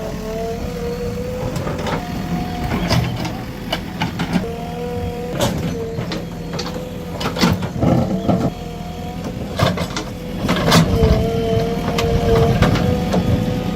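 JCB 3DX Plus backhoe loader working, its diesel engine running steadily under a whine that wavers in pitch. Sharp knocks and clanks of the bucket against stone come at uneven intervals, several of them clustered near the middle.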